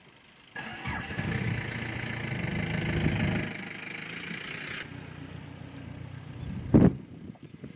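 An engine starts suddenly and runs loudly for about three seconds, then settles to a lower level; a single loud thump comes near the end.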